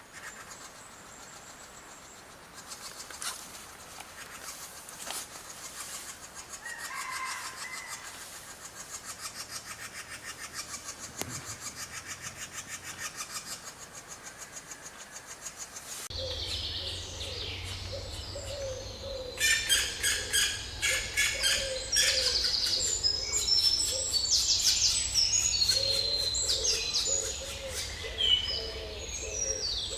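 Woodpecker nestlings begging with rapid, rhythmic ticking chirps. About halfway through the sound cuts abruptly to a louder, busier stretch of chirps and calls over a low steady hum.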